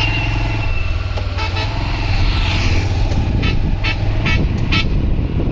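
Road traffic: a motor vehicle engine running with a steady low rumble, and vehicle horns tooting, a run of short toots in quick succession in the second half.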